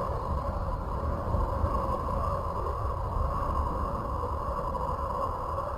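A loud, steady, siren-like tone drawn out without a break, wavering slightly in pitch, over a low rumble.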